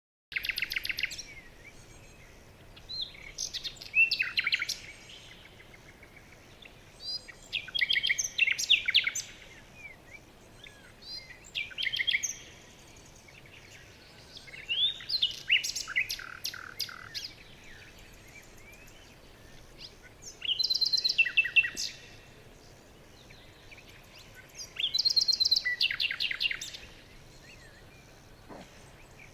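A songbird singing repeated phrases of rapid high chirps and trills, one phrase every three to four seconds, about seven in all.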